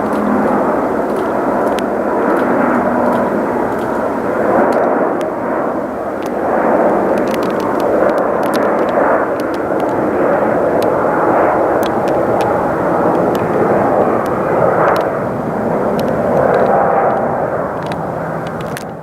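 Jet airliner engines running at high power: a loud, steady rushing noise that swells and eases slightly.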